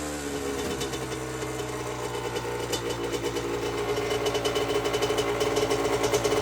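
Honda CR80's single-cylinder two-stroke engine running with water now cleared from its fuel. Its revs settle at the start, then pick up and grow louder over the last couple of seconds.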